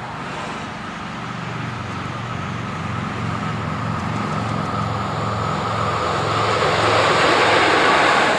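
Electric locomotive hauling an Intercity train, approaching and passing close by. A low hum and the rush of the train build steadily and are loudest near the end as the locomotive goes past.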